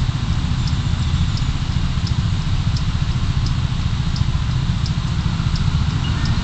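Car cabin noise picked up by a dashcam while driving: a steady low rumble of engine and road, with a faint tick about twice a second.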